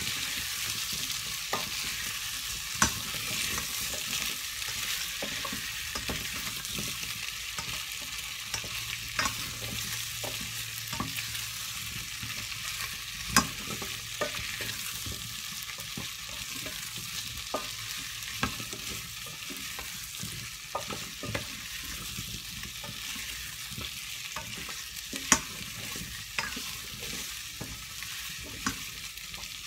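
Potato slices and onion sizzling in butter in a stainless steel saucepan, stirred with a spatula: a steady sizzling hiss with scattered sharp clicks and scrapes of the spatula against the pan, the loudest about 13 and 25 seconds in.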